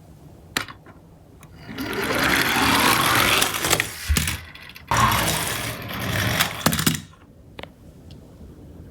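Toy garbage truck minicars running on a slope: two loud bursts of mechanical whirring and rattling, about two seconds each, the first starting about two seconds in and the second about five seconds in.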